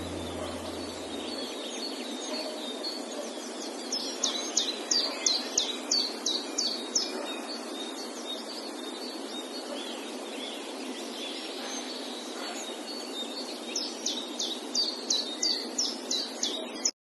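A bird calling in quick series of short falling chirps, about three a second, once around four seconds in and again near the end, over a steady hiss of outdoor ambience. The sound cuts off suddenly just before the end.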